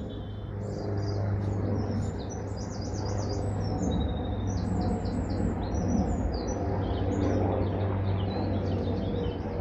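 Small birds chirping repeatedly over the steady low rumble of an aeroplane passing overhead, which grows a little louder about a second in.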